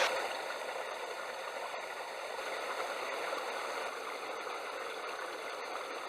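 Steady rush of a small mountain stream.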